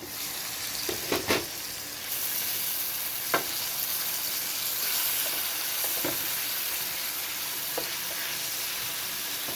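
Chicken sizzling as it fries in a pan, a steady hiss that starts suddenly and grows louder about two seconds in. A cooking utensil knocks against the pan a few times while the chicken is stirred.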